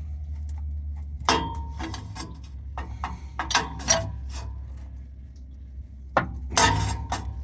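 Metal clicks and clinks of a pipe wrench working a truck's oil drain plug as it is loosened. There are scattered knocks over a steady low hum, with clusters about a second in, three to four seconds in, and near the end.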